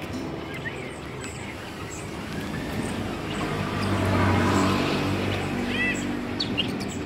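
Outdoor bird-market sound: caged birds give short chirps, a clear one about six seconds in, while a motor vehicle passes, its engine hum swelling a few seconds in and fading again.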